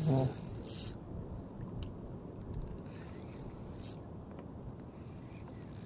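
Fishing reel clicking in short irregular bursts of its ratchet, over a low steady background.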